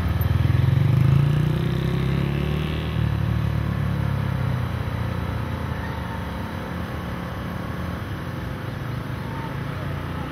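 Honda Grom's 125 cc single-cylinder four-stroke engine, breathing through an aftermarket slip-on muffler, revving up and down as the bike is ridden through tight turns. The loudest burst of throttle comes about a second in, and the engine then runs a little lower for the rest of the run.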